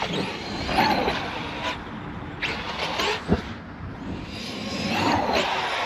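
Large electric RC trucks driving hard on dirt: brushless motors whining up and down in pitch over tyre scrabble, with a few sharp knocks in the middle.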